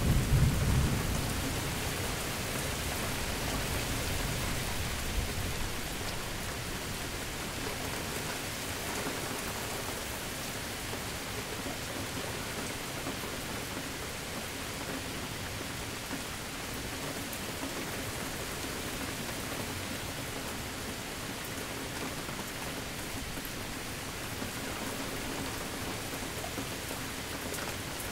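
Steady rain falling, with a roll of thunder at the start that rumbles low and dies away over the first five seconds or so, leaving the rain alone.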